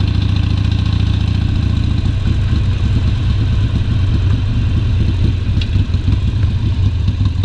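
Harley-Davidson Sportster Forty-Eight's air-cooled 1200 cc V-twin running under way. About two seconds in, its even rumble breaks into a looser, uneven beat as the bike slows on a closed throttle.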